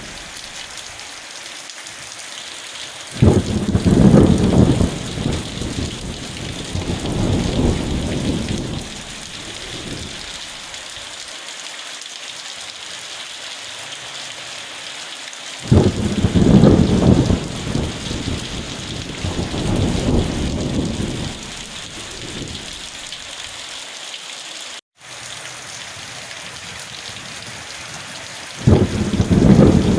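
Steady rain falling, with thunder rumbling three times: each roll starts suddenly and runs for several seconds. The whole sound drops out for a split second near the end.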